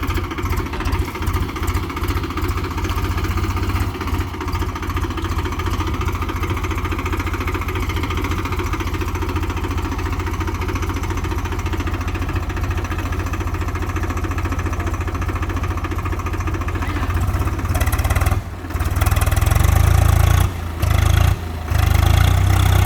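Swaraj 735 FE tractor's three-cylinder diesel engine running steadily with a fast low chugging. Near the end it grows louder, broken by a few short drops.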